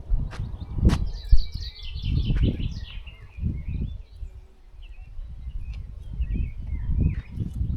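Wild birds singing: a quick run of high chirps about a second in, then scattered shorter calls. Under them runs a loud low rumble with thumps and a few sharp clicks.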